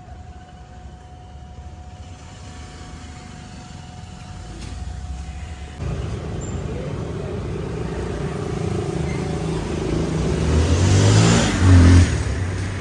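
Yamaha R15 M motorcycle's single-cylinder engine running on the road, quiet at first, then louder from about six seconds in as it accelerates, loudest near the end.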